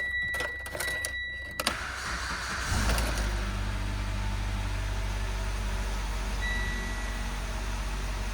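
2015 Mitsubishi Lancer's 2.4-litre four-cylinder engine being started: a steady high electronic chime with a few clicks, a sharp click and a brief crank, then the engine catches about three seconds in and settles into a steady idle. A short chime sounds again partway through.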